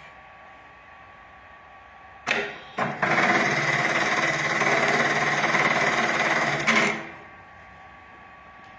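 High-speed electronic bartacking sewing machine (Kingmax GT1900): two short knocks about half a second apart, then it stitches a bartack at high speed for about four seconds and stops abruptly.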